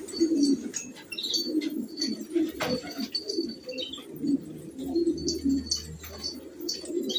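Several domestic pigeons cooing over and over, with short high chirps from birds mixed in.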